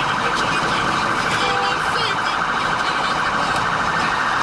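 Police car siren sounding continuously with a fast, even pulsing, over road and engine noise from the squad car in pursuit.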